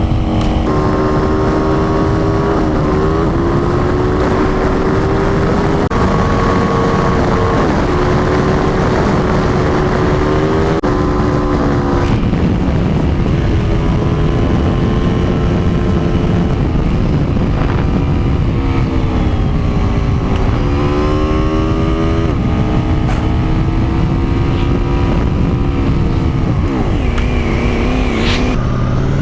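Motorcycle engine running under way, its note rising and falling with the throttle, over steady wind and road noise.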